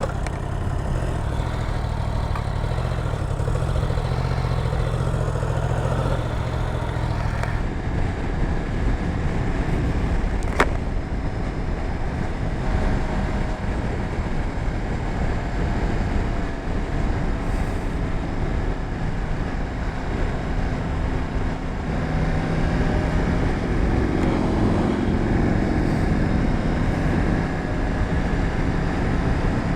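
2024 Yamaha R1's crossplane inline-four engine running, its note steady for the first several seconds and then shifting in pitch as the bike rides, with wind rushing over the microphone. A single sharp click about ten seconds in.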